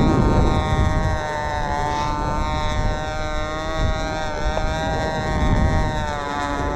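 Shark 45 control-line stunt model airplane's small two-stroke glow engine running at a steady high whine, its pitch slowly wavering up and down as the plane flies its circle. Wind buffets the microphone with a low rumble in the first second.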